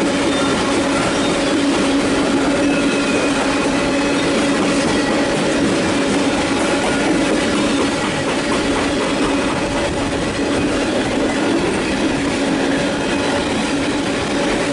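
A train passing close by: steady rail and wheel noise from the cars rolling over the track, with a steady tone held underneath.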